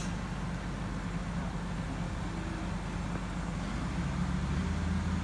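A vehicle engine running steadily with a low drone, growing a little louder about four seconds in.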